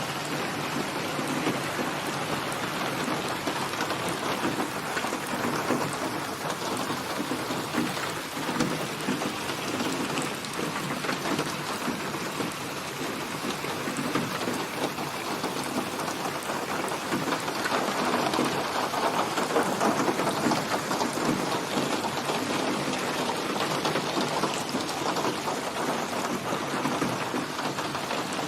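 Steady rain falling on a surface, a dense patter of drops, growing a little heavier about two-thirds of the way through.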